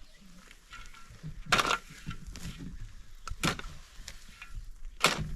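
A hand tool striking wood in an even rhythm: three sharp knocks about two seconds apart.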